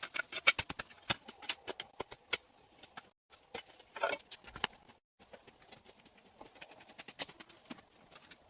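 A run of sharp knocks or taps, several a second at first, then sparser and fainter, broken by a few brief cuts to silence.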